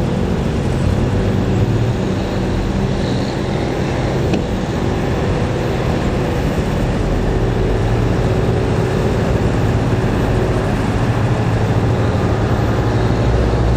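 Heavy truck engine running at a steady speed on the road, a continuous low drone with road noise.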